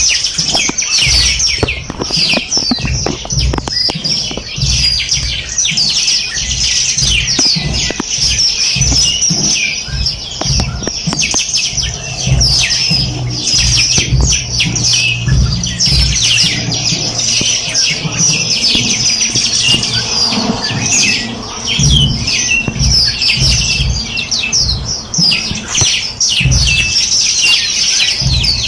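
A chorus of many small songbirds chirping and trilling at once, a dense stream of short, rapid high notes, over a low rumble.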